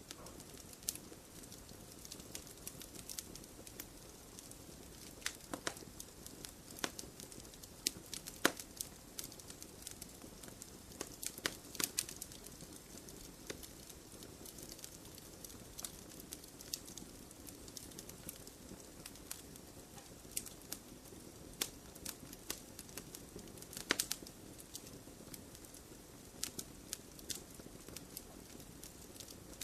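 Campfire crackling: a steady soft rush of burning with frequent sharp pops and snaps, some coming in quick clusters.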